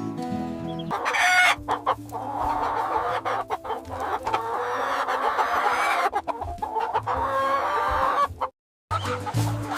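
Acoustic guitar strumming stops about a second in, giving way to chickens clucking busily over faint background music. The sound cuts out completely for a moment near the end.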